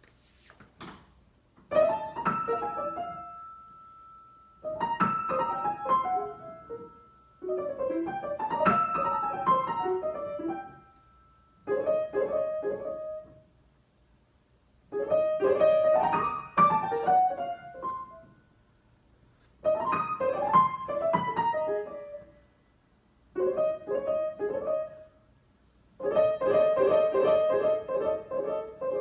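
Solo piano improvisation played in short phrases separated by brief pauses, ending in a faster run of quick repeated chords.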